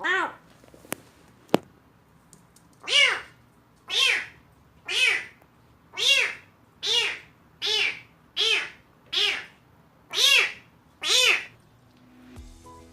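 Young kitten meowing over and over, about eleven loud calls roughly a second apart, each rising then falling in pitch. Two sharp clicks sound early, between the first and second meows.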